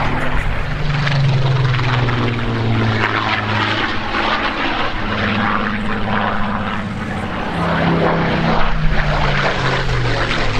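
Piston-engined propeller aircraft flying past, its engine note steady and loud, shifting in pitch as it goes by.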